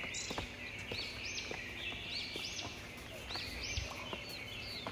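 Wild birds calling repeatedly in short, high, arching notes, over a steady high-pitched hiss.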